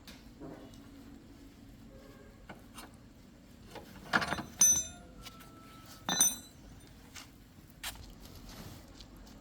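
Metal hand tools clinking and knocking: scattered light clicks, then three louder ringing clinks about four to six seconds in, with a few softer knocks after.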